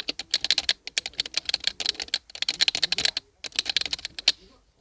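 Fast typing on a Team Scorpion LED plunger keyboard: rapid runs of key clicks broken by short pauses, stopping shortly before the end.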